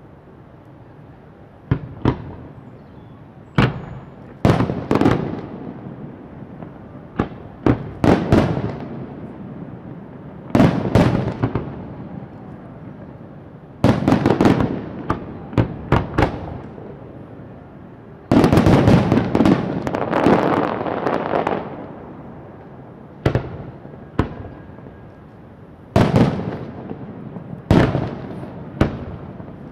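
Fireworks going off: a series of sharp bangs at irregular intervals, each trailing off in crackle and echo, with a dense barrage lasting about three seconds a little past the middle.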